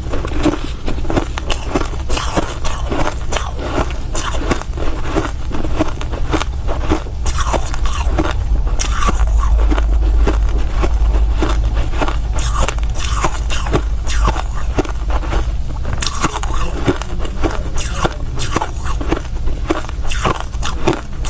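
Close-miked chewing and crunching of soft crushed ice, with dense irregular crunches a few times a second over a steady low rumble.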